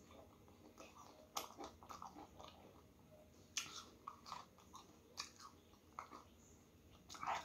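Close mouth sounds of a person chewing a mouthful of noodles: soft, irregular wet smacks and clicks, a few of them louder.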